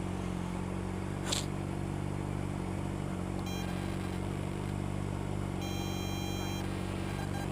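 A motorcycle engine idling steadily, with two electronic beep tones about halfway through: one short, one about a second long.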